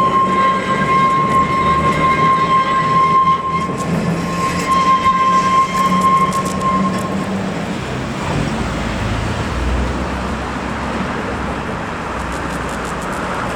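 A heritage electric tram running along the rails, with a steady high-pitched whine for about the first seven seconds. After that it fades into a low running rumble, with some scattered light clicks in between.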